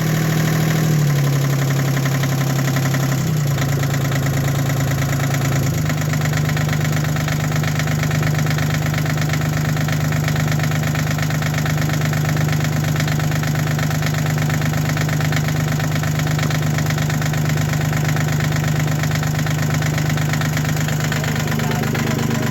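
Sailboat's inboard engine running steadily with its prop shaft uncoupled from the drive-side dampener, out of gear. Its speed shifts a few times in the first six seconds, then settles to a steady idle.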